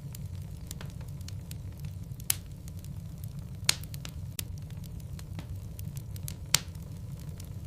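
Wood logs burning in a fireplace: a steady low rumble of the flames with irregular crackles and snaps, three of them sharper pops about 2, 4 and 6.5 seconds in.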